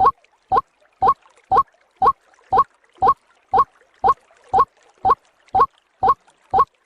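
White-breasted waterhen (ruak-ruak) calling: a monotonous series of short, rising 'kwak' notes, about two a second, evenly spaced.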